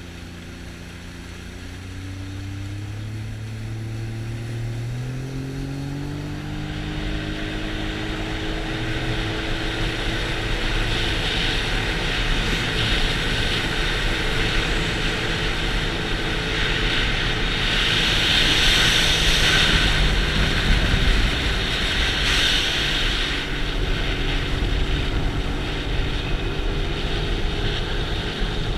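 Supercharged Sea-Doo GTX 300 jet ski engine accelerating, its pitch rising over the first several seconds. It then gives way to a steady rush of water and wind as the ski runs at speed, loudest a little past halfway.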